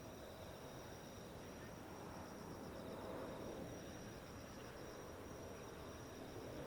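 Insects chirping steadily in two high-pitched, pulsing trills over a faint low background rumble.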